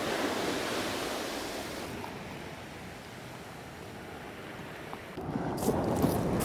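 Ocean surf washing up the beach: a wave's rush swells, eases, then a louder surge comes in about five seconds in, with a few light clicks near the end. Wind buffets the microphone.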